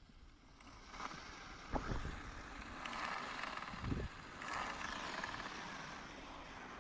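Lexus engine running with the loud noise of an exhaust leak, heard in the owner's own recording of the car. The mechanic takes it for a blown exhaust manifold gasket at the last cylinder.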